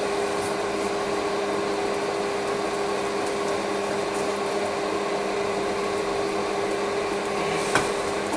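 A steady electric blower hum, likely the forge's air blower, running evenly, with one sharp knock near the end.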